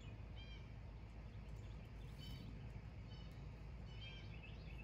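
Faint bird chirps: short high calls repeating about once a second, over a steady low rumble.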